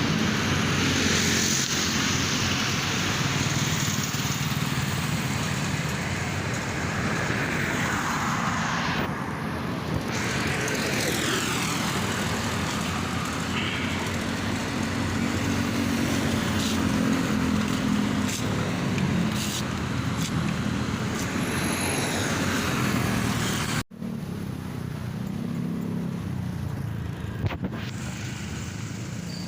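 Road traffic noise: vehicle engines and tyre noise running steadily as vehicles pass on the road, with an abrupt cut about three-quarters of the way through, after which it is a little quieter.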